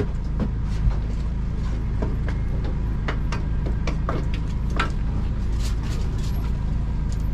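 Steady low machine rumble in a food truck kitchen, with scattered light clicks and knocks over it.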